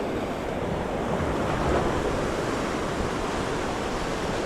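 Ocean surf washing steadily against the shore, with some wind on the microphone.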